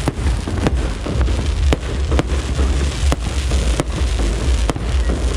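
Aerial fireworks bursting: a run of sharp bangs at irregular intervals, about two a second, over a steady low rumble.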